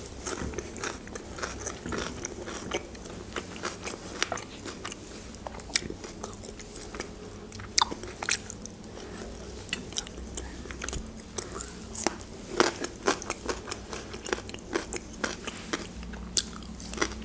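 A woman chewing grilled chicken, with many short sharp clicks and smacks from her mouth.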